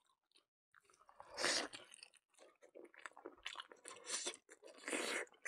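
Close-up mouth sounds of a person biting and chewing braised pig nose: irregular chewing clicks, with two louder bursts about a second and a half in and near the end.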